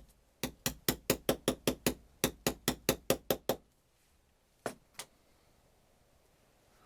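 A run of quick, sharp knocks, like light hammer taps, about five a second in two bursts, then two single knocks near the five-second mark.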